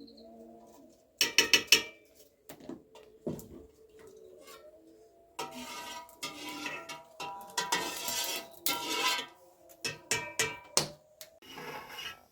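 Metal pots and utensils clattering and knocking during cooking, with a quick cluster of sharp knocks a little over a second in and longer stretches of clatter in the second half. A dove or pigeon coos faintly at the start.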